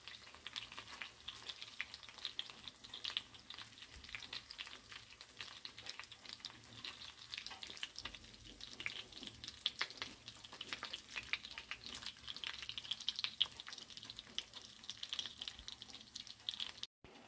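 Breaded chicken pieces sizzling and crackling in shallow hot oil in a frying pan, a dense patter of small pops from the spitting oil. The sound cuts out briefly near the end.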